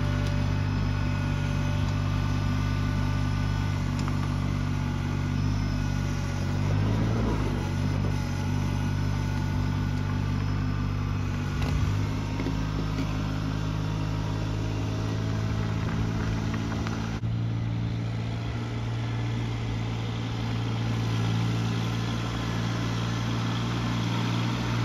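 Rural King RK19 compact tractor's engine running at a steady speed, with a slight change in tone about two-thirds of the way through.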